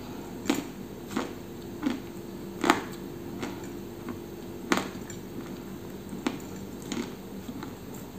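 Close-up chewing of a dry, white, crumbly substance, with sharp crunches about every two-thirds of a second.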